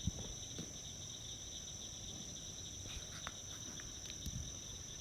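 Evening marsh chorus: a steady, high-pitched buzzing trill at two pitches, with a few faint clicks.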